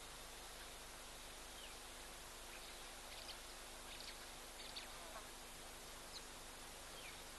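Faint, short bird chirps come a few times, some sliding down in pitch, over a steady background hiss.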